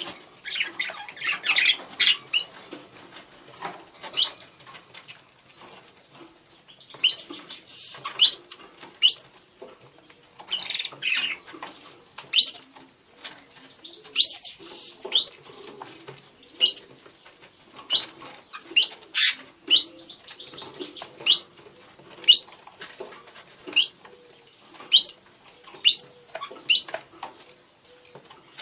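Budgerigars calling to each other: a run of short rising chirps, about one a second, with busier chattering in between.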